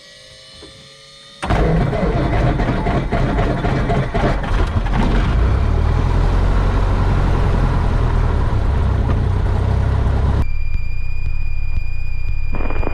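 Cessna 172 Skyhawk's piston engine starting suddenly about a second and a half in, then running steadily and loudly. Near the end the sound turns to a quieter steady hum with a high steady whine.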